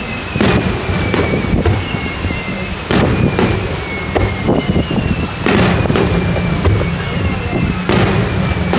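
Aerial fireworks bursting overhead: a steady run of sharp bangs and crackles over a continuous rumble, with heavier booms about three, five and a half, and eight seconds in.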